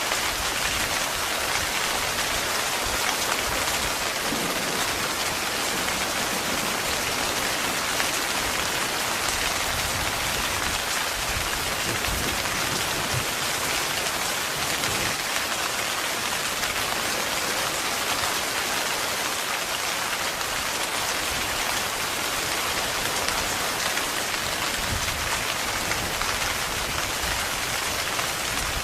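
Heavy rain falling steadily on a tent, as an even, unbroken hiss with no distinct thunderclap.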